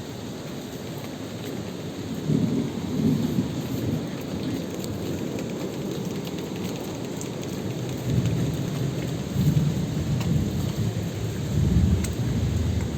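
Steady rain falling, with low rolling rumbles of thunder swelling twice, a couple of seconds in and again through the second half.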